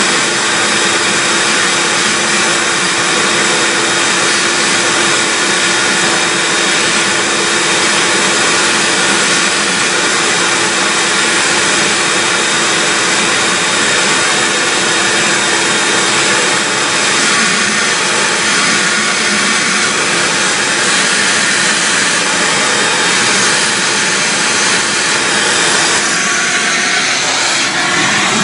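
A loud, steady rushing machine noise with a constant hum, running without a break: a motor-driven shop tool working continuously.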